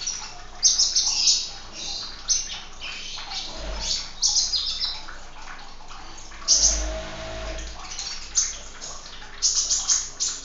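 Sunbirds chirping and twittering in quick, high-pitched bursts every second or two, over the steady trickle of running water.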